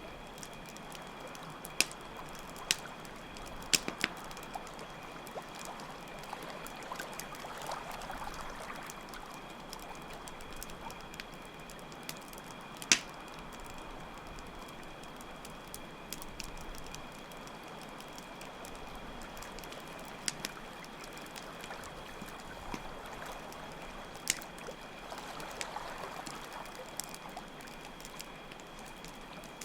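Campfire crackling with scattered sharp pops, under a steady high trill of chirping crickets and the sound of water, rising and falling in slow swells twice.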